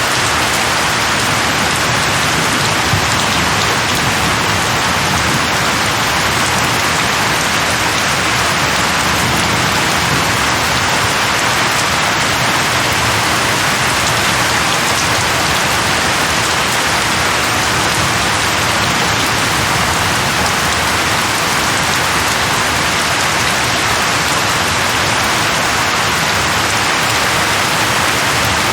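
Steady, heavy rain falling on leaves, an even hiss with no thunder.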